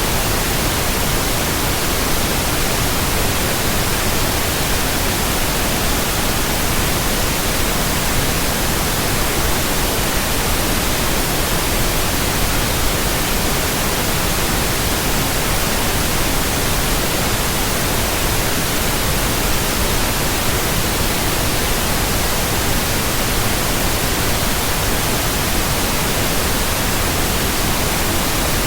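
Pure white noise: a steady, even hiss spread across all pitches, unchanging throughout.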